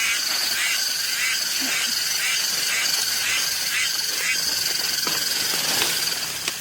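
Outdoor chorus of calling animals, likely frogs or insects: a steady high buzz with a pulsed chirping call repeating about three times a second, which fades out about four seconds in.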